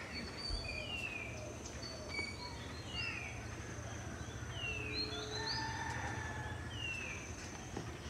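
A bird calling over and over, short downward-sliding whistles about every second and a half, over a thin steady insect whine and a low hum.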